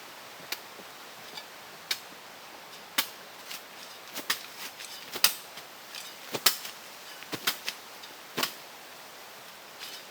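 Irregular sharp clicks and taps, about fifteen of them at uneven spacing, over a steady faint hiss.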